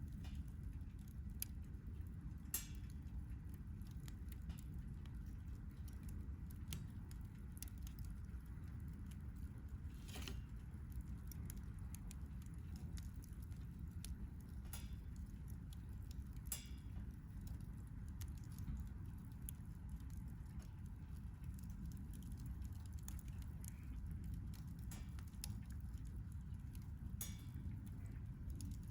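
Wood campfire crackling, with sharp pops scattered irregularly over a steady low rumble.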